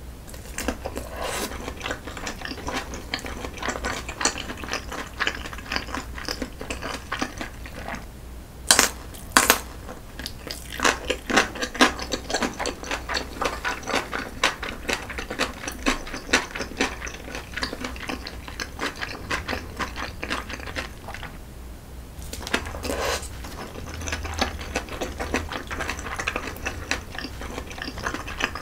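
Close-miked eating sounds: shrimp shumai dumplings chewed with a steady run of wet mouth clicks and smacks. Two sharp knocks stand out about nine seconds in.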